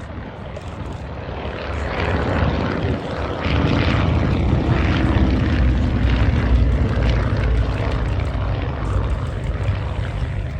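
Twin-engined Avro Anson flying past, the drone of its radial engines building about two seconds in, loudest in the middle and easing off a little near the end.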